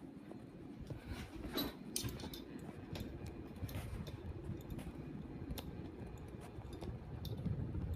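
52-inch Halsey ceiling fan running on high: a steady motor hum and air noise, with scattered light clicks. The owner says the motor hums a lot.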